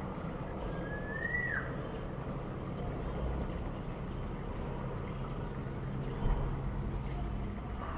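A single whistled note from a green pigeon (punai) rises and then drops sharply, about a second and a half in. It sits over a steady low rumble.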